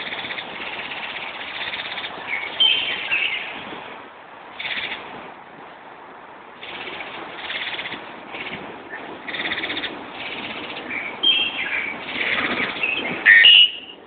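Bird chirping and singing in short phrases with brief pauses between them; the loudest burst of chirps comes just before the end.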